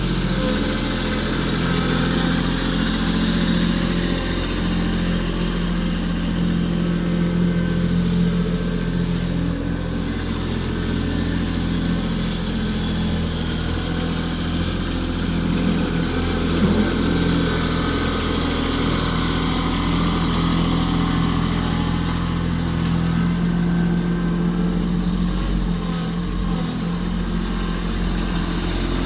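Kubota B26 compact tractor's three-cylinder diesel engine running steadily at a constant speed.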